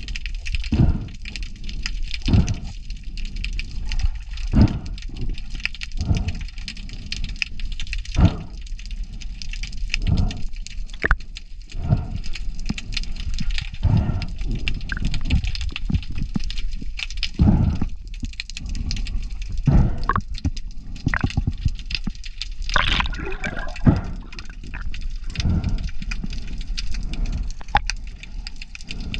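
Underwater sound: a series of short, low croaks, one every second or two, over a scattering of sharp crackling clicks.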